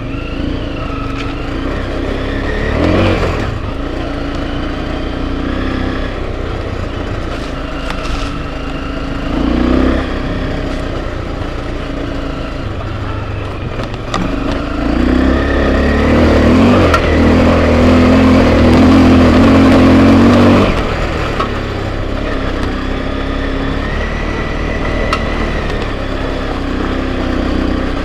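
Enduro dirt bike engine running under way, the revs rising and falling with brief surges, and a longer, louder pull at high revs from about halfway through to about three-quarters through.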